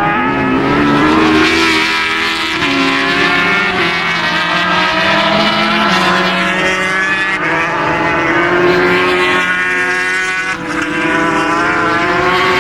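Several racing motorcycle engines running hard at high revs, overlapping, their pitch repeatedly rising and falling.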